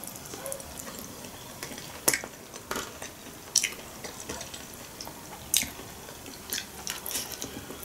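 A person chewing a mouthful of sushi roll close to the microphone, with a few short wet mouth clicks and smacks at irregular intervals.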